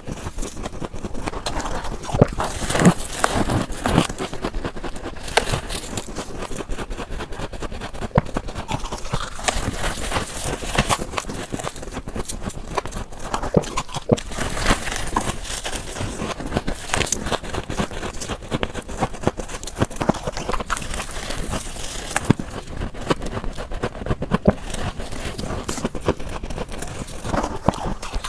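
Close-up crunching of freezer frost ice being bitten and chewed, a dense, continuous run of crisp cracks and crackles.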